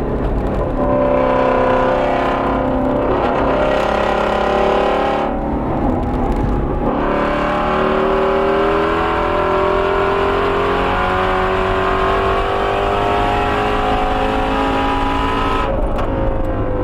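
Ford Shelby GT350R's 5.2-litre flat-plane-crank V8 at full throttle on track, its note rising in pitch. There is a break about five seconds in, a long climb through the revs after it, then the pitch drops suddenly near the end as the driver lifts off.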